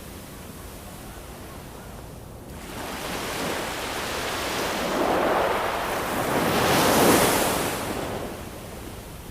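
Ocean waves breaking: after a short lull a wave builds over a few seconds, surges twice to its loudest about seven seconds in, then washes back and fades.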